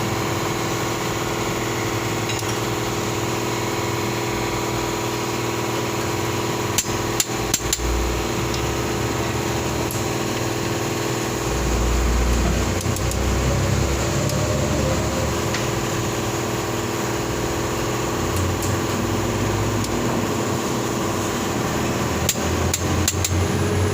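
Metal hand tools clicking and knocking in two brief clusters, about seven seconds in and again near the end, during bolt tightening on the transmission, over a steady mechanical hum.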